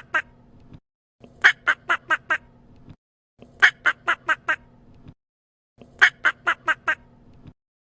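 An animal calling in bouts of four or five short, sharp calls in quick succession, each bout about a second long and repeating about every two seconds, with dead gaps between bouts.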